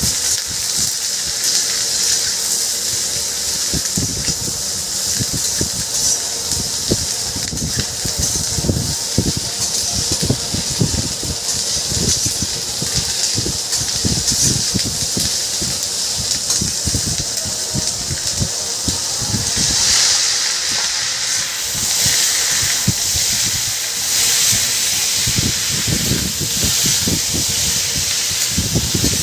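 Sliced onions sizzling in oil in an iron kadhai, with a steady hiss and frequent irregular knocks and scrapes of a steel spatula stirring against the pan. The hiss swells about two-thirds of the way in.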